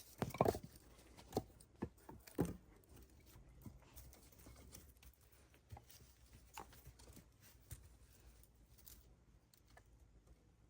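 Several light, sharp knocks and clicks in the first few seconds, then only faint scattered ticks.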